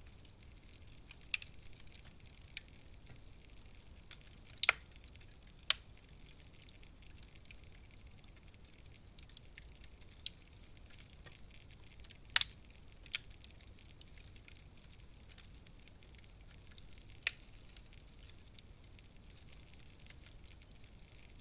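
Wood fire crackling in a fireplace: scattered sharp pops every few seconds over a faint steady hiss, the loudest about five and twelve seconds in.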